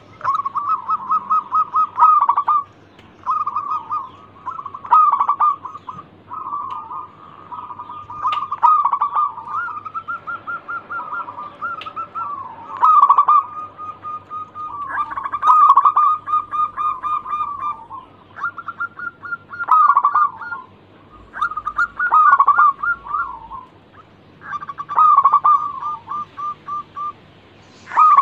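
Zebra dove (perkutut) singing: phrases of quick, pulsing cooing notes, each one to two seconds long, repeated again and again with short pauses between.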